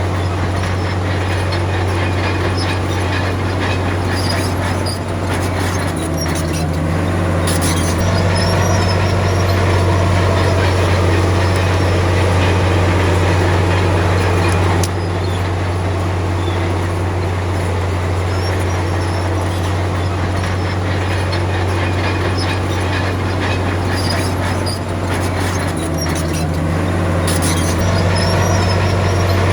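Heavy diesel engine of earthmoving machinery running with a steady low drone, its pitch and level shifting a few times as the load changes.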